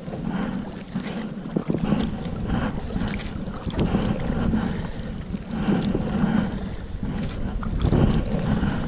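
Wind buffeting a GoPro's microphone in uneven gusts, over water splashing against a kayak.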